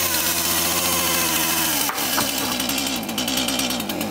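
Petrol chainsaw running steadily, with a brief dip and a knock about two seconds in before it runs on.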